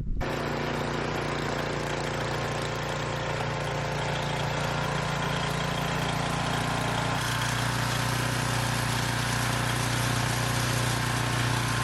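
Gas snowblower engine running steadily while clearing snow, its pitch shifting slightly about seven seconds in.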